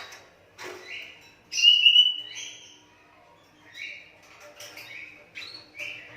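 A hand-reared young Asian pied starling (jalak suren) giving a series of harsh calls, the loudest and longest about one and a half to two and a half seconds in, then shorter calls in quick succession near the end.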